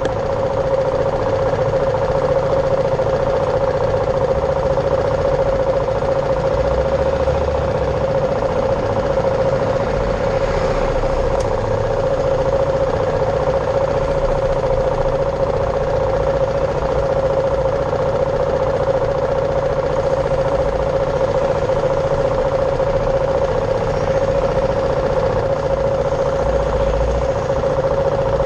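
BMW G310R's single-cylinder engine running at a steady, unchanging pace, with a constant tone held throughout.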